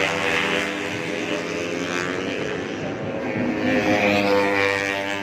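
Several 150cc four-stroke underbone racing motorcycles running at high revs. Their engine notes sag about two seconds in, then climb again.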